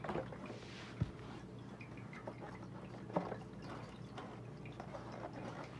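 Quiet room tone with a few faint scattered clicks and taps, the clearest about one second in and just after three seconds in.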